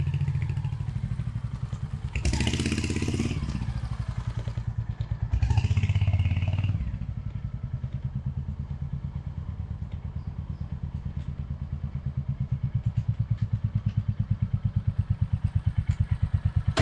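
Royal Enfield Hunter 350's single-cylinder engine thumping steadily with even exhaust beats while being ridden, with two brief louder bursts of noise around two and five and a half seconds in. The beats grow louder and more distinct over the last few seconds.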